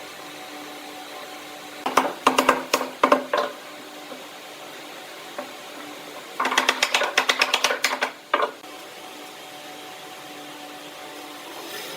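A woodworking tool at work: two bursts of rapid rattling knocks, each lasting one to two seconds and about four seconds apart, over a steady machine hum.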